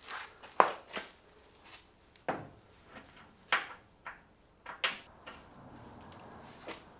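Scattered knocks and clicks of hand tools and parts being handled during garage work, about ten in all. The sharpest comes just over half a second in, and a faint steady hum sets in near the end.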